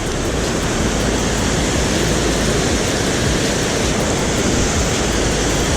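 Steady, loud rush of river water pouring over a small waterfall, an even wash of noise with no breaks.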